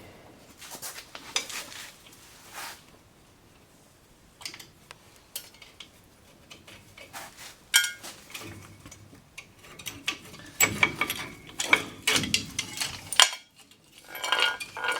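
Metal clinking and rattling of front drum brake hardware (return springs, shoes and clips) being pried loose and dropping, with irregular sharp clinks, some ringing briefly. It gets busier about halfway through.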